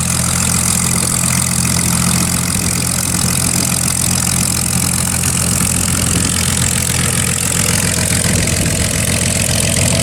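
Curtiss P-40 warbird's V-12 piston engine idling steadily, with a steady hiss over it. The low engine tones loosen and waver a little near the end.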